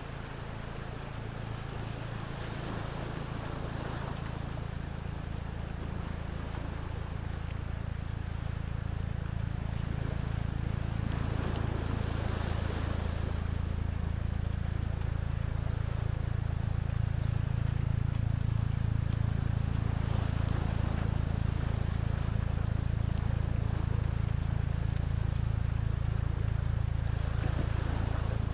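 Sea waves washing in, swelling now and then, over a steady low rumble that slowly grows louder.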